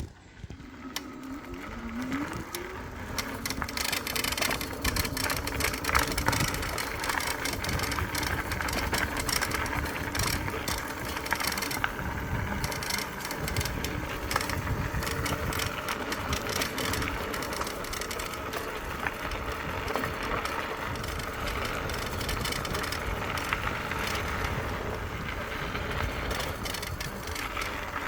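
E-bike being ridden along a rough dirt trail: steady tyre noise with many small knocks and rattles. Near the start a motor whine rises in pitch as the bike pulls away.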